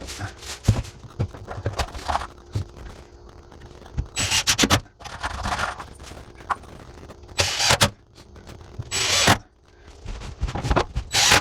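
Several short bursts of rapid clattering, each about half a second long, with scattered knocks between them, as a board is fastened over the nesting box of a chicken coop.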